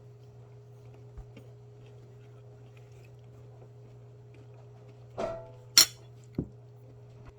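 Tableware being handled: a short clatter, then a sharp bright clink and a duller knock in quick succession about five seconds in, over a steady low hum.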